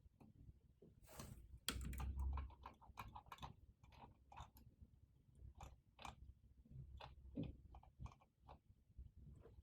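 Faint, irregular clicks of typing on a computer keyboard, with a brief louder rustle about a second in.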